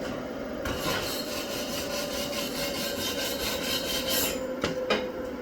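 Small 120-volt flux-core MIG welder arc crackling with a fast, even buzz for about three and a half seconds, then cutting off; two short clicks follow, over a steady hum.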